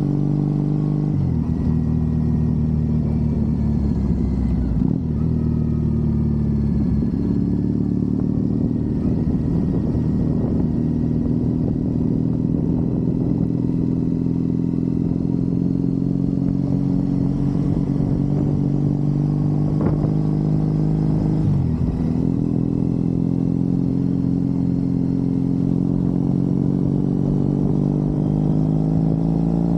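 Triumph Bonneville parallel-twin engine running on the move, heard from the rider's position. Its pitch shifts a few times, about a second in, around five seconds in and a little after twenty seconds, then climbs steadily near the end as the bike accelerates.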